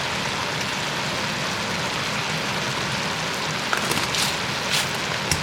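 Steady sizzling of chitterlings and vegetables cooking in oil and butter in a pot, with a few light clicks near the end.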